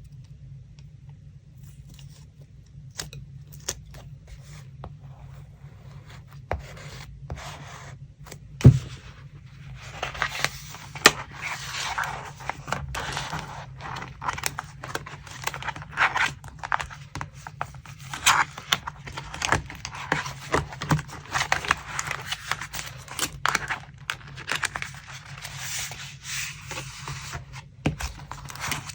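Paper and collage materials being handled at close range: scattered taps and small rustles at first, then about ten seconds in a dense stretch of scraping and rustling paper with frequent light taps.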